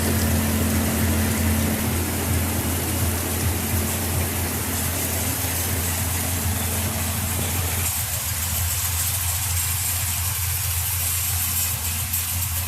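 A truck's diesel engine idling with a steady low hum under the even hiss of heavy rain.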